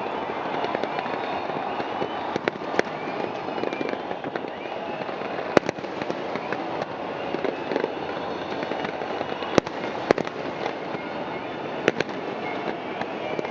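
Fireworks display going off: a continuous dense noisy wash broken by sharp individual bangs, about five of them, the loudest near the middle and two in quick succession a little later.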